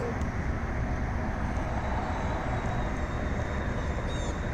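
Steady low outdoor rumble, like distant traffic or a vehicle nearby, with a few short high chirps falling in pitch near the end.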